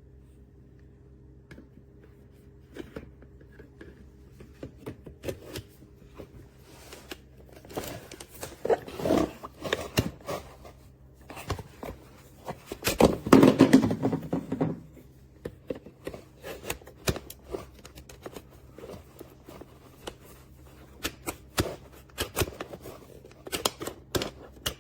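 Handling noises: scattered clicks and rustling as objects are moved about by hand, with two louder spells of rustling and scraping about nine seconds in and again around thirteen to fifteen seconds in.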